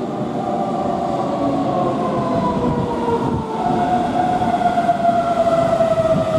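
Keihan electric train on rails, its motors whining in several tones that fall slowly and steadily in pitch over a rumble of wheels, as a train slowing into the station does.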